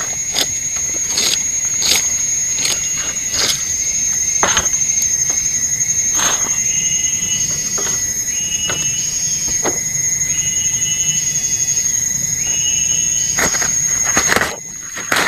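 Forest insects buzzing at one steady high pitch, with another insect call repeating in short trilled phrases about once a second through the middle. Over this come a series of sharp knocks at irregular intervals.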